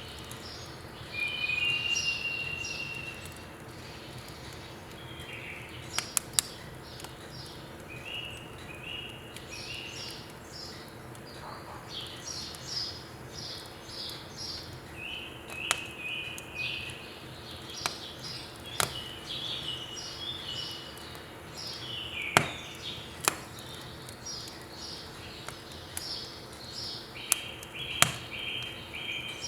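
Small birds chirping and twittering in short repeated calls throughout, with a few sharp pops and crackles of firewood burning in a wood stove.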